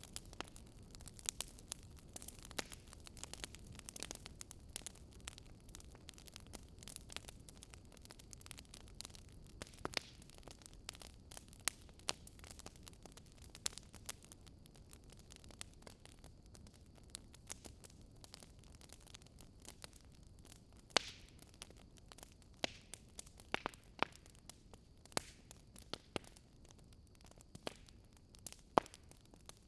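Wood fire crackling in a fireplace: irregular sharp pops and snaps over a faint low rush of flame, with a few louder pops near the end.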